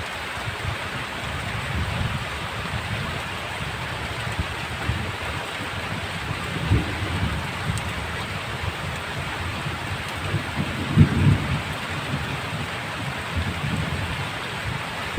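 Heavy rain falling in a steady hiss, with low rumbles of thunder swelling and fading underneath, the strongest about eleven seconds in.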